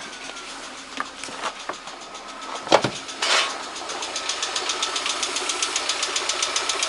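Lada VAZ 124 16-valve 1.6 engine running hot with an even, rapid ticking knock that sets in about four seconds in. The owner has been unable to find its cause, even with oil pressure near 2 bar. A single sharp clunk comes a little before the ticking starts.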